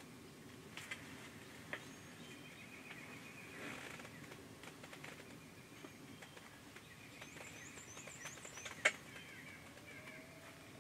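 Songbirds chirping and trilling in the woods, with a quick run of high chirps late on. A few sharp clicks come through, the loudest about nine seconds in.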